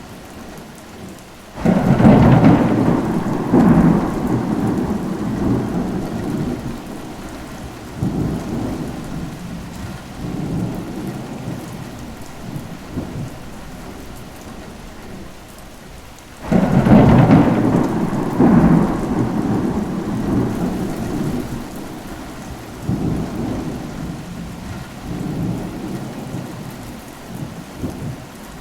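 Steady rain with thunder: two claps of thunder, about a second and a half in and again about sixteen seconds in, each rumbling on and fading over several seconds with later swells, over the steady rain.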